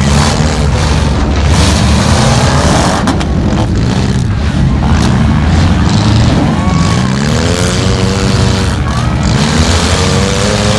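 Demolition derby cars' engines running and revving repeatedly as they drive and hit each other, with music playing along.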